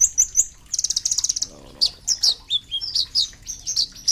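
Kolibri ninja (a sunbird) singing: a fast, busy run of high, sharp chirps and slurred notes, with a rapid trill of evenly spaced notes about a second in.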